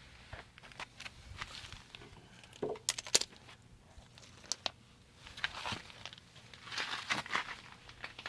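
Intermittent rustling and crinkling with scattered sharp clicks, the loudest a pair of clicks about three seconds in, typical of parts and tools being handled.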